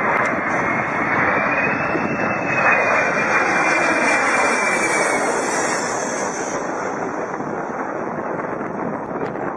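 Aircraft engine noise: a loud, steady rush with a thin whine that rises over the first two seconds, then slowly sinks and fades about halfway through.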